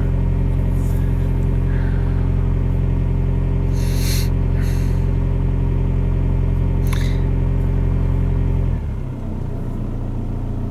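2005 VW Passat TDI's 2.0-litre four-cylinder turbodiesel idling steadily while warming up after a cold start. About nine seconds in, the engine note drops and settles lower as the idle falls back to about 850 rpm. There are a few brief clicks around the middle.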